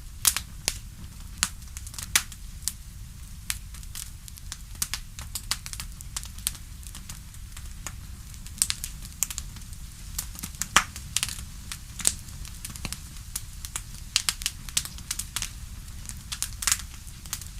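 Campfire crackling: burning wood giving off irregular sharp pops and snaps, several a second, over a steady low rumble of the flames.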